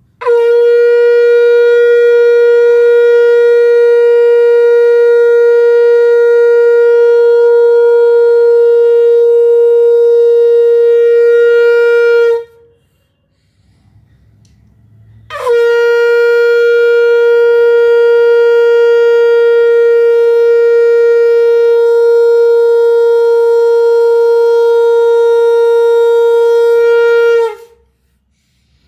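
Conch shell (shankh) blown in two long, steady blasts of about twelve seconds each, about three seconds apart. Each settles at once onto a single held note.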